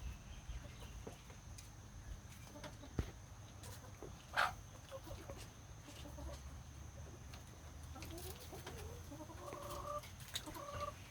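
Backyard hens clucking quietly as they feed, with scattered short sharp ticks. One louder brief sound comes about four seconds in, and a run of short clucking calls comes in the last few seconds.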